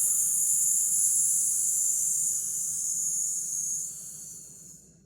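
A woman pushing out a long 'sss' breath through her teeth, a steady hiss that fades away after about four seconds.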